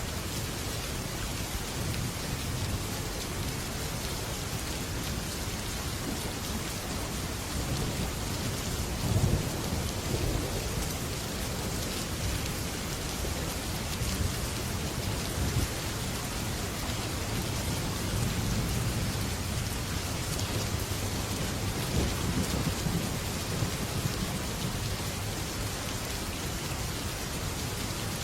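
Heavy rain falling steadily on a metal roof, with low thunder rumbling underneath. The thunder swells about a third of the way in and again later.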